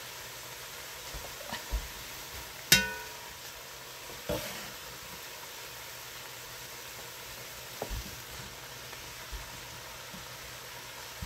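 Vegetables sizzling steadily in a hot enamelled pot. A sharp metallic clink rings out about three seconds in, and softer knocks follow at about four and eight seconds as diced chicken goes into the pot.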